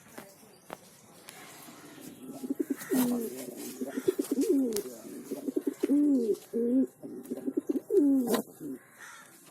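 Male birds calling in low, repeated rising-and-falling notes, starting about two and a half seconds in and going on almost to the end, with a sharp click near the end.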